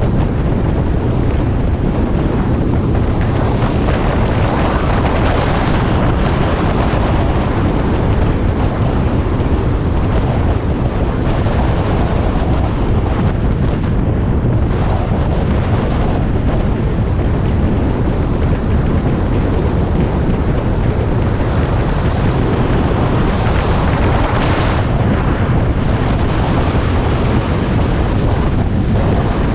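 Wind rushing and buffeting over the microphone of a Harley-Davidson Iron 1200 being ridden at speed, with the motorcycle's air-cooled V-twin and road noise running steadily underneath.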